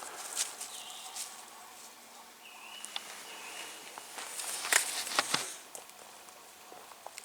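Footsteps on leaf litter, moss and twigs in woodland, a scatter of soft crunches with a louder cluster of steps about four to five seconds in.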